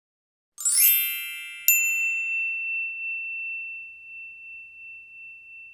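A quick upward run of bright chimes, then one sharp metallic strike whose single high tone rings out for several seconds with a wavering decay.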